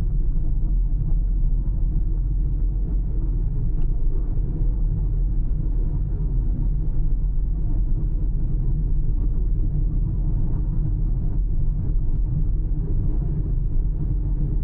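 Car driving at a steady pace: a continuous low rumble of tyre, road and engine noise with no changes.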